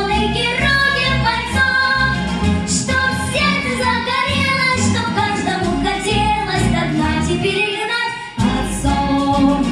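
Children singing with instrumental accompaniment. The music dips briefly a little after eight seconds in, then comes back in full.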